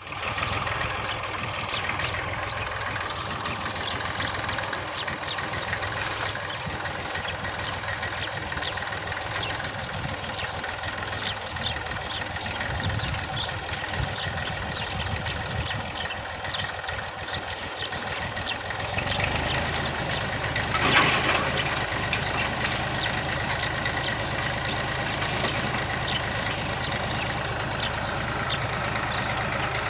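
Old Massey Ferguson 35 tractor engine running steadily. About two-thirds of the way through its note turns heavier and deeper, with a brief louder burst a couple of seconds later.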